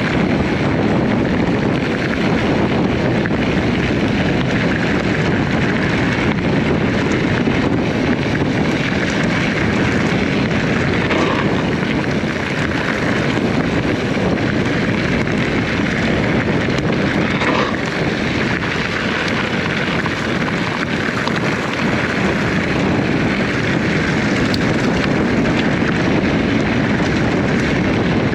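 Steady wind noise buffeting the microphone of a chest-mounted camera on an e-bike ride.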